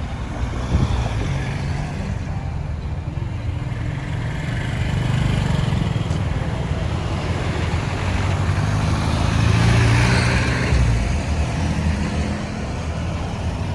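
Road traffic noise: vehicle engines running with tyre and road noise, swelling as a vehicle passes close about ten seconds in.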